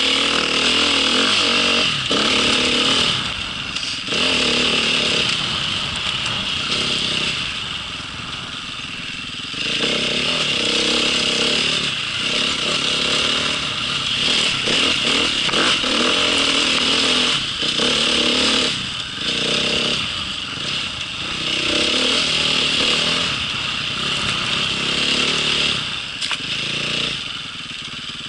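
Motocross bike engine running and revving up and down as it is ridden, in repeated louder and quieter swells every few seconds.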